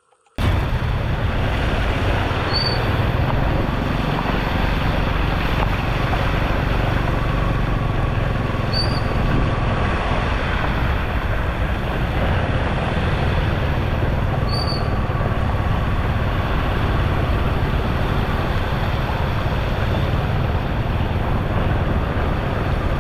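Steady rush of floodwater pouring into a storm drain, starting abruptly about half a second in, with three short high chirps spread through it.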